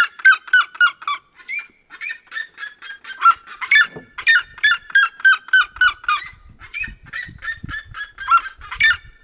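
Red-legged seriemas calling together: a long run of loud, rapid yelping notes, about three to four a second.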